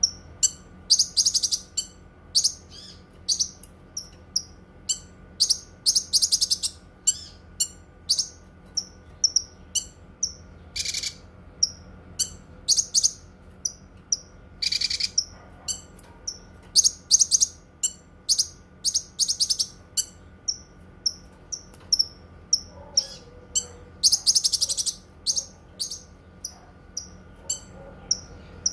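Cucak kinoi singing: a run of short, high, repeated chirps broken every few seconds by fast, loud rattling trills. Under the song runs a faint steady electrical hum.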